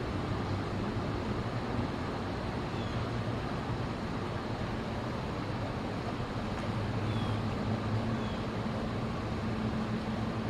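Steady low rumble of distant traffic, with a few faint, short high-pitched chirps about three and seven seconds in.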